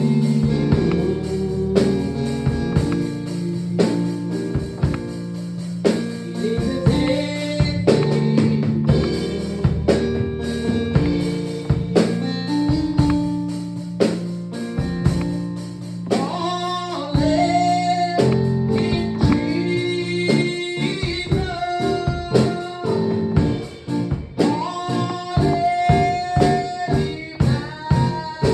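Gospel worship music played by a band with drums, bass and guitar. A singing voice holds long notes in the second half.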